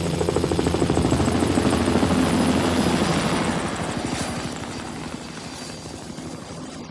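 A vehicle engine with a fast, even chopping beat, loud at first and fading away over the last few seconds.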